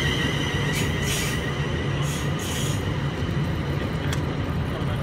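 Class 350 electric multiple unit pulling out of the station: a steady low rumble with a high whine and several short bursts of high hiss or squeal in the first few seconds.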